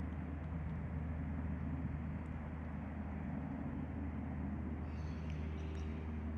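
Steady low outdoor rumble with an even hum underneath, the kind of sound distant road traffic makes. A few faint high chirps come in about five seconds in.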